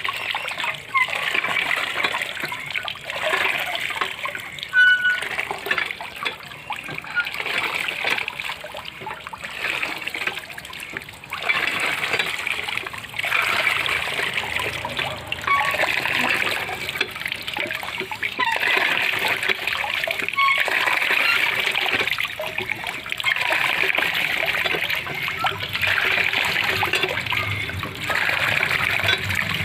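Water splashing and trickling, swelling and easing every second or two.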